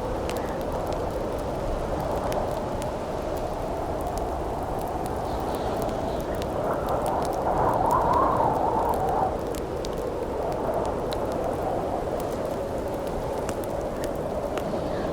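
Campfire crackling with scattered sharp pops over a steady howling wind, which swells into a louder gust about halfway through.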